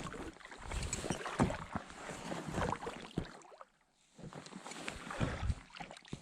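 Double-bladed carbon-fibre paddle dipping into and pulling through lake water from a packraft, in uneven splashing strokes with a short pause a little past the middle.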